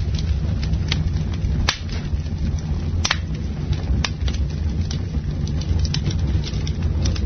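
Campfire burning, with sharp crackles and pops of the wood about once a second over a steady low rumble.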